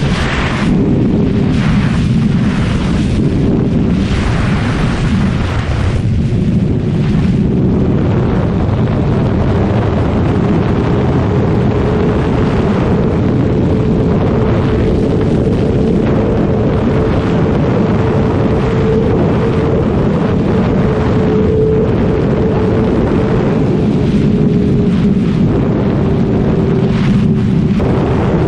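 Kawasaki ZX-6R 636's inline-four engine running at a fairly steady cruising speed, its pitch rising slightly toward the middle and easing back, with heavy wind rush on the microphone.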